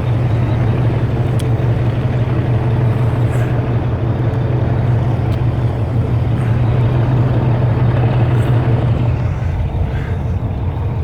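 Volvo VNL semi-truck's diesel engine running steadily at low speed as the truck pulls out slowly, heard inside the cab as a constant low drone.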